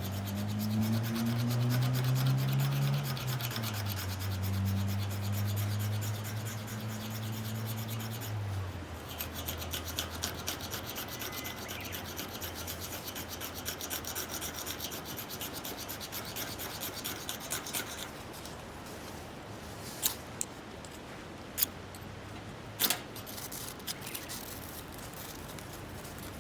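Ferrocerium fire-starter rod being scraped with a striker in rapid rasping strokes, throwing sparks to light a fire; a few sharp cracks follow near the end. It opens with a low droning hum that shifts in pitch and fades out about a third of the way in.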